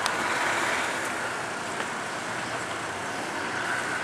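Steady outdoor background noise with no single clear source, and a short click at the very start.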